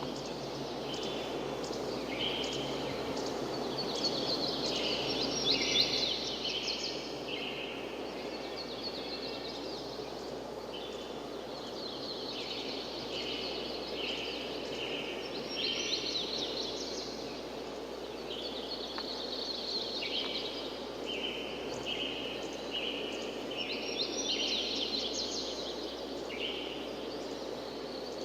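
Forest ambience: birds singing in repeated short high phrases over a steady rushing background noise.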